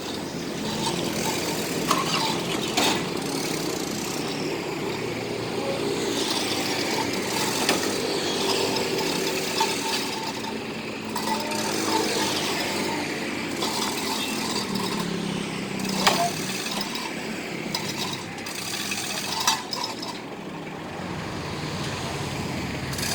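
A motor vehicle engine running steadily with a rough rattle, with a few sharp metallic knocks.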